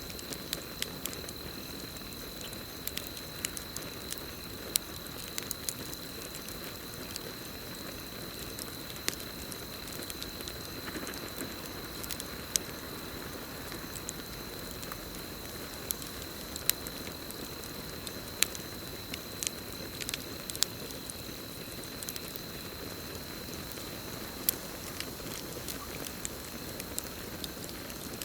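Campfire burning with a steady hiss and irregular crackles and pops from the wood, over a continuous high cricket trill.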